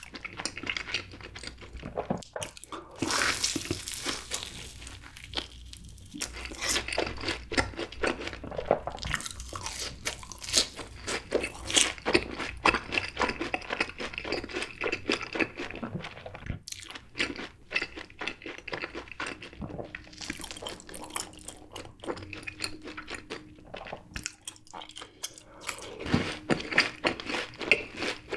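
Close-miked crunching and chewing of fried cheese balls: the crisp, seasoned fried coating crackles in dense, irregular crunches as it is bitten and chewed.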